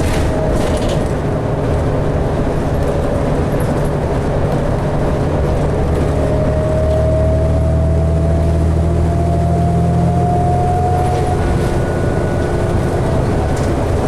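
Articulated diesel transit bus (2012 New Flyer D60LFR) heard from inside while under way: a steady engine drone, with a thin whine rising slowly in pitch from about halfway through as the bus gains speed, giving way to a higher whine near the end.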